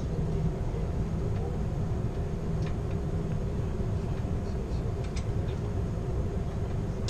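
Steady low rumble of an Amtrak passenger train rolling along the rails, heard from inside the rear car, with a few faint high clicks, one about two and a half seconds in and a sharper one about five seconds in.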